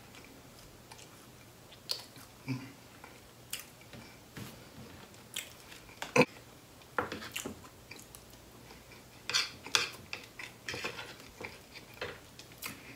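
A person chewing a thick biscuit: irregular wet mouth clicks and smacks, with one sharper click about six seconds in.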